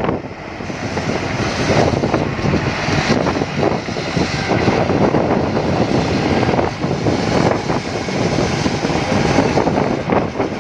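Concrete mixer truck running, a loud steady mechanical rumble with no clear engine note.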